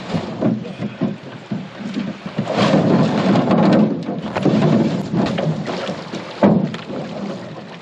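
17-foot Alumicraft aluminum canoe hull being dragged and bumped over plywood and logs: an irregular hollow rumbling scrape broken by several sharp knocks.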